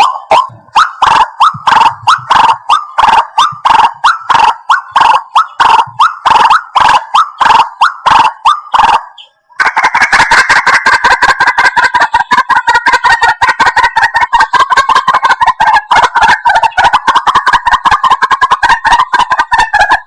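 White-breasted waterhen calling, a loud, rhythmic run of short repeated croaking notes at about three or four a second. It breaks off briefly a little before halfway, then resumes as a faster, denser run of notes.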